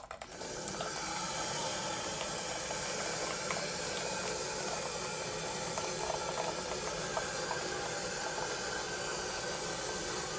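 Water rushing through a just-opened valve on a heating boiler: a steady hiss that starts about half a second in and holds without a break.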